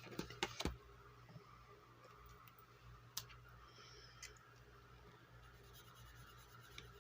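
Faint scratching of a marker on paper, with a few light clicks near the start and a single sharper click about three seconds in.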